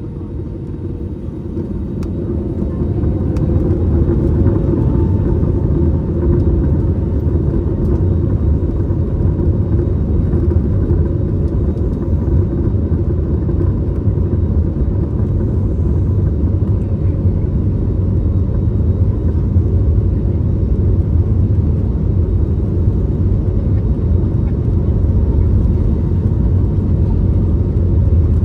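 Airbus A321neo's jet engines spooling up to takeoff thrust: a rising whine over the first few seconds as the rumble grows louder, then a steady, loud rumble of the takeoff roll heard from inside the cabin.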